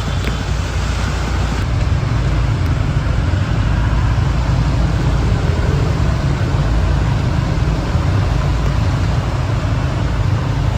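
Steady road-traffic rumble mixed with the hiss of heavy rain on a flooded street.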